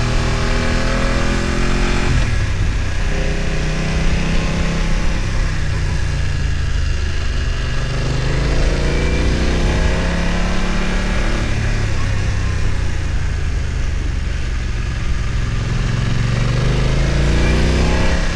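BMW F900 XR's 895 cc parallel-twin engine pulling under throttle, its revs climbing and falling back several times, with a sharp drop about two seconds in.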